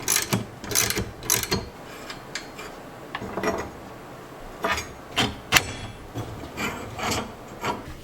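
Hand-tool work on metal parts: irregular scraping and clicking strokes, a few a second, with a short pause about halfway through.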